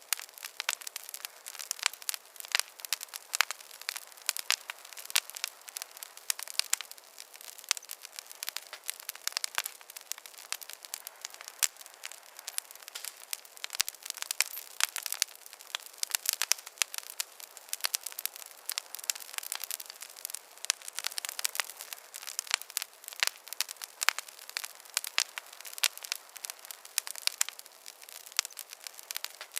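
Wood fire crackling steadily in a fireplace: a dense, irregular stream of small sharp pops and snaps over a faint hiss.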